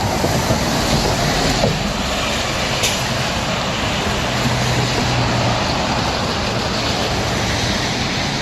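Steady street traffic noise from passing cars, with a low engine hum from a vehicle going by about halfway through.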